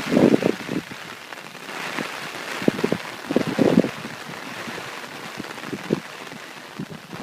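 Heavy typhoon rain falling in a steady hiss. Gusts of wind buffet the microphone at the very start and again about three seconds in.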